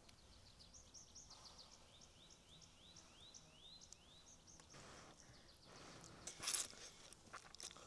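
A small bird singing a quick run of short, high, rising chirps for about four seconds, faint, followed by a few rustling noises.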